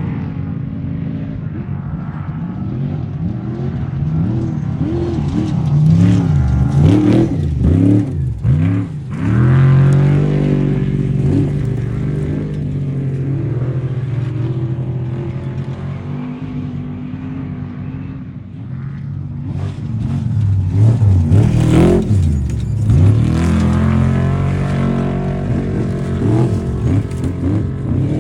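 Off-road racing vehicles' engines running loudly, with two spells of hard revving that rise and fall in pitch: one about a quarter of the way in and another about two-thirds in.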